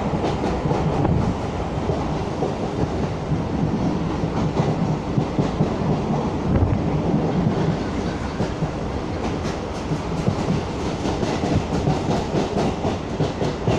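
Kolkata suburban EMU local train running at speed, heard from inside the coach by an open window: a steady rumble with the wheels clicking and clattering over the rail joints, the clicks coming thicker in the second half.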